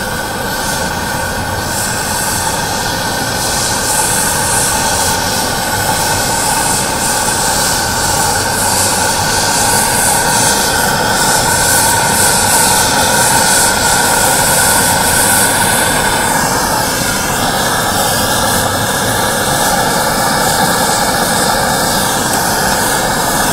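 Gas torch flame burning steadily, heating aluminum to melt a low-temperature aluminum welding rod. The steady rushing flame noise carries faint tones that shift about two-thirds of the way through, then stops suddenly.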